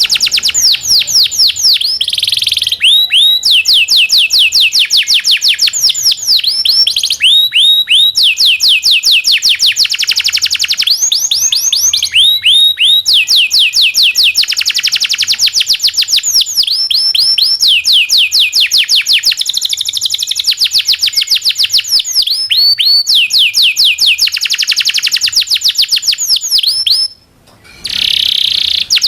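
Domestic canary singing long rolling trills: fast runs of repeated high, falling notes strung into long phrases, with a short break near the end.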